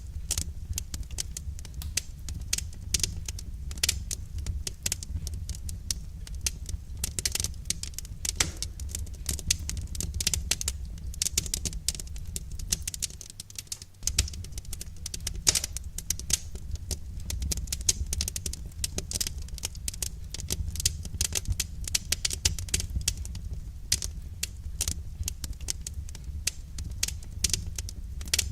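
Wood fire crackling: dense, irregular snaps and pops of burning firewood over a steady low rumble.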